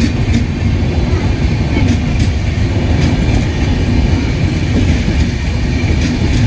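A train passing at close range: a steady, loud rumble of wheels on rails, with occasional clicks as the wheels cross rail joints.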